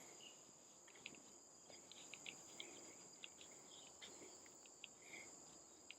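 Near silence with a faint, steady, high-pitched drone of insects in the forest, and a few soft scattered ticks.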